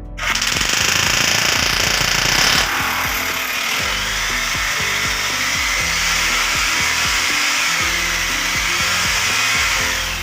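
Power drill running continuously, starting suddenly and stopping after about ten seconds, its sound shifting about two and a half seconds in; background music plays underneath.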